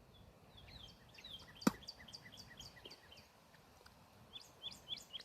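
Cardinal calling: a rapid series of short, high, falling notes, then another quick run of them near the end. A single sharp click about a second and a half in is the loudest sound.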